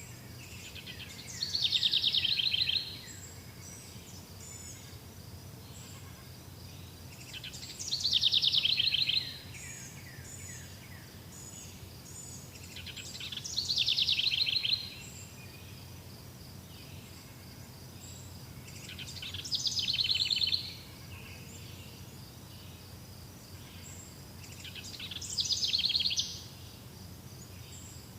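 A songbird singing the same short song five times, about every six seconds; each song is a rapid trill lasting about a second and a half. Fainter steady high chirping of insects or other birds runs underneath.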